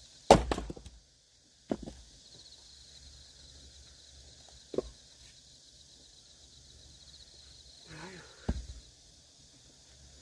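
Axe splitting firewood: four sharp chops a few seconds apart, the first the loudest with a clatter after it. A brief voice sound comes just before the last chop.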